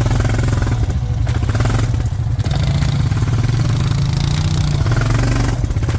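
Four-wheeler (ATV) engine running steadily.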